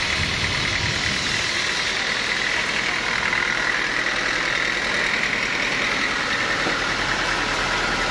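Sawmill machinery running steadily with a continuous mechanical noise and no distinct strokes or cuts.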